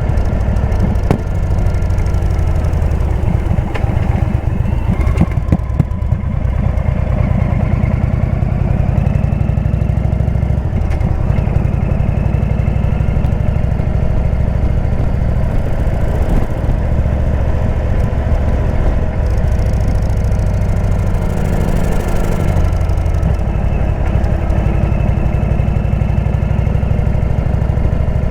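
Indian V-twin motorcycle engine running steadily through a Jekill & Hyde exhaust, a deep continuous rumble with only slight rises and falls in pitch.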